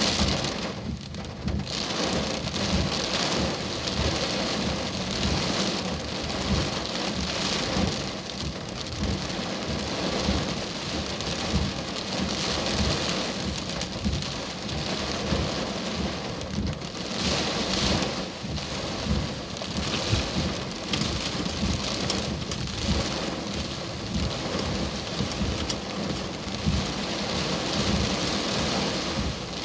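Heavy thunderstorm rain pouring steadily, with a dense hiss of drops and a constant low rumble and thudding underneath.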